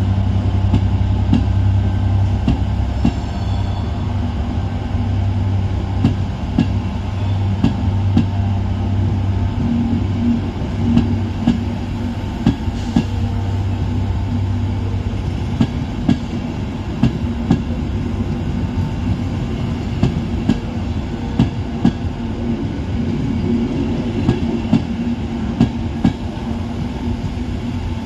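A train passing, its wheels clicking and knocking over rail joints in a steady clatter. A steady low hum sounds with it and fades out about halfway through.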